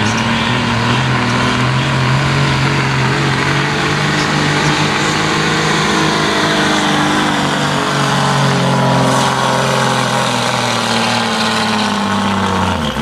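Pulling truck's engine running flat out under heavy load as it drags a weight-transfer sled, its pitch held steady, then sagging and dropping off near the end as the pull finishes.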